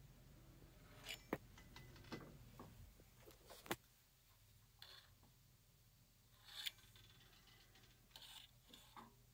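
Near silence with a few faint clicks and light scrapes: a milling machine spindle being turned slowly by hand while a dial test indicator rides on a parallel.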